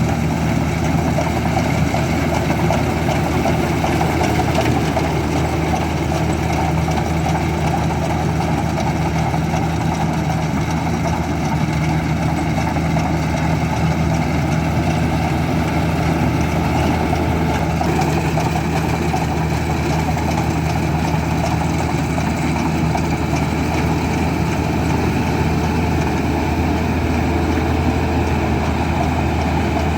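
Farm machine's diesel engine running steadily at a constant speed, a deep even hum with no revving.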